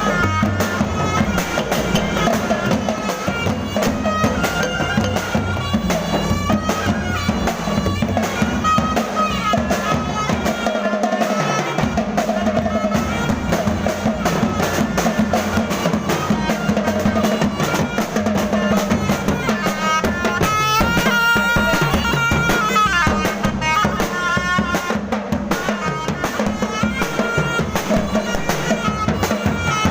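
Thai procession band music: a continuous beat of drums and percussion under a reedy wind melody over a steady drone.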